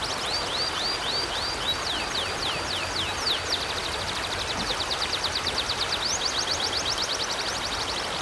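A small bird calling in a rapid series of high, sweeping chirps, about four a second at first and quickening to a fast trill of about ten a second about three seconds in, over the steady rush of a flowing river.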